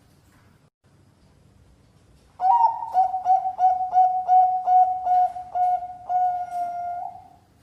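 Zebra dove of the Bangkok song strain cooing. After about two seconds of quiet, it gives a quick run of short, clipped coos, about two or three a second, that close on one longer held coo near the end.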